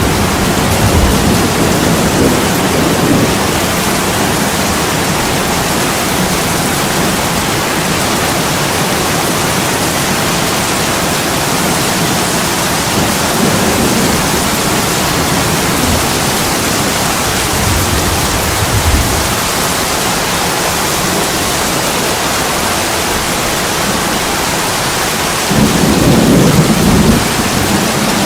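Heavy rain pouring onto an attic window, a dense steady hiss, with low rolling rumbles of thunder; the loudest rumble swells up a little before the end.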